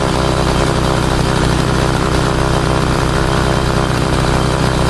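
A small gasoline engine running steadily at an even speed, with no revving.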